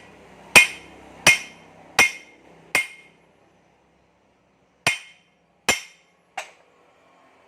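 Hammer striking metal: four sharp ringing blows about 0.7 s apart, then after a pause of about two seconds two more and a lighter one.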